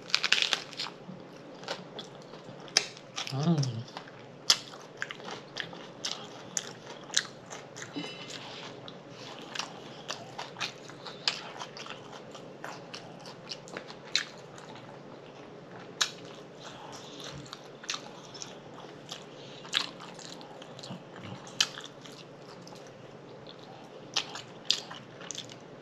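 Close-up chewing of a collard green wrap: crisp bites into the leaf, then steady chewing with many irregular wet mouth clicks and lip smacks. A short hummed "mm" about three and a half seconds in.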